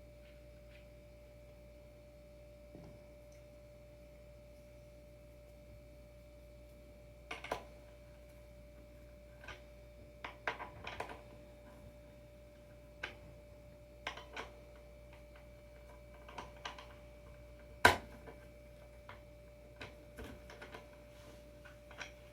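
Scattered clicks and knocks of skateboard hardware and tools being handled while a surfskate adapter is fitted to a longboard, with one sharper knock near the end. A faint steady hum runs underneath.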